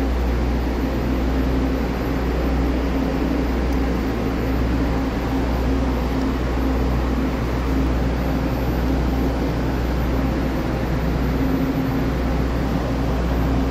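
Steady low hum of trains idling at a station platform, with no change in level throughout.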